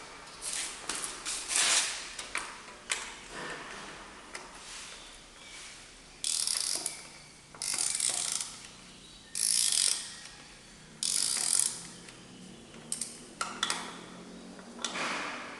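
Hand ratchet wrench clicking in repeated strokes: scattered clicks and knocks at first, then a short burst of clicking about every second and a half.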